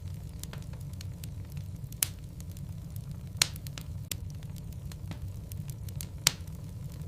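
Wood logs burning in a fireplace: a steady low rumble of the fire with frequent small crackles, and three loud sharp pops from the burning wood.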